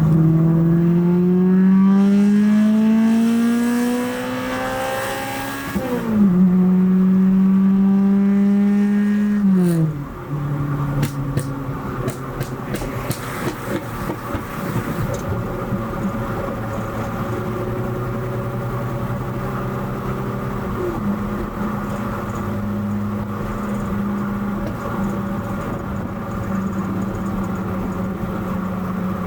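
Nissan SR20VE four-cylinder engine revving hard under acceleration: its pitch climbs for about six seconds, drops sharply at an upshift, climbs again for about four seconds, then falls away as the throttle is lifted. A run of sharp exhaust pops and crackles follows on the overrun, then the engine settles into a steady cruise.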